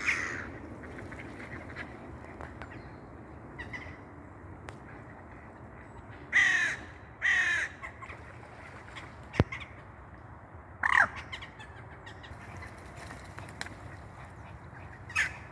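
Harsh bird calls, each about half a second long and dipping in pitch, heard a handful of times several seconds apart, the two loudest close together about halfway through, over a steady low outdoor background. A single sharp click sounds about two-thirds of the way in.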